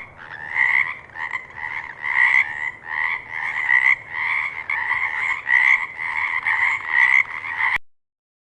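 Frog croaking in a steady series of calls, about two a second, which cuts off abruptly near the end.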